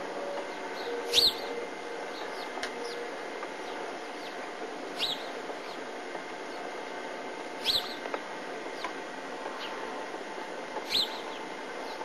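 Small songbirds chirping: four sharp, loud chirps that drop quickly in pitch, a few seconds apart, with fainter chirps in between, over a steady hiss.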